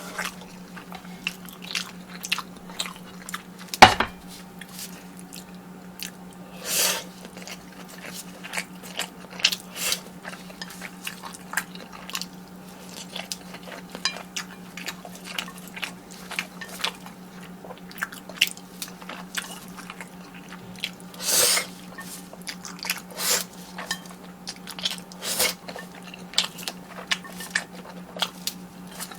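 Close-miked eating: a person chewing and biting food, with many small mouth clicks. There is a sharp knock about four seconds in, and a steady low hum underneath.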